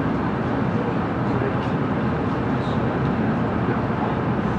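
Steady low rumble inside a 700 series Shinkansen passenger car running slowly along the platform as it arrives at a station, with passengers' voices in the crowded car.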